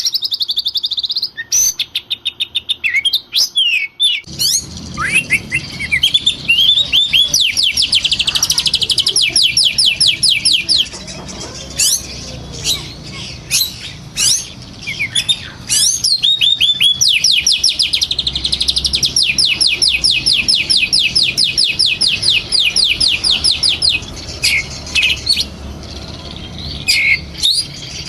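An oriental magpie-robin (kacer) singing an agitated, aggressive song of loud chirps and whistles, broken twice by long, very fast trills of rapidly repeated notes.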